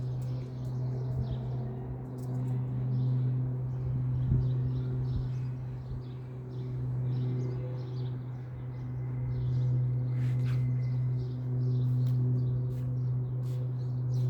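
Small birds chirping in quick short calls, over a steady low mechanical hum that runs unbroken.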